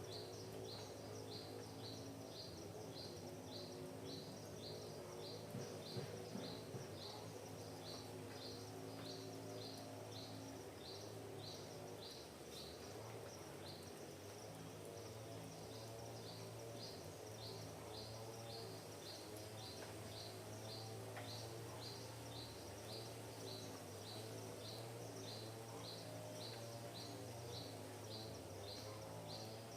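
A bird repeating a short high chirp evenly, about twice a second, over a steady low hum.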